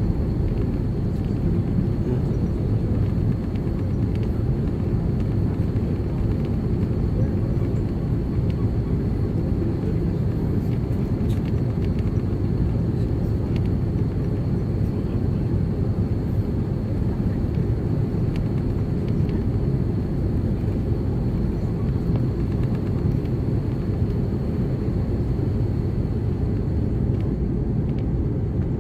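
Cabin noise inside an Airbus A330-300 on the ground before takeoff: a steady low rumble from its Rolls-Royce Trent 700 engines at idle and the airframe, with a faint steady high whine.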